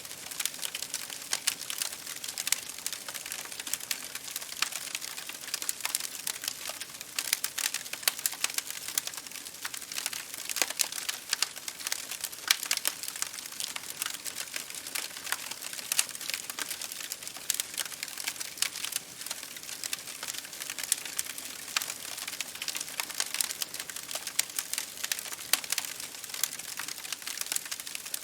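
Campfire burning steadily: wood crackling and popping in many small, irregular snaps over a soft hiss of flames.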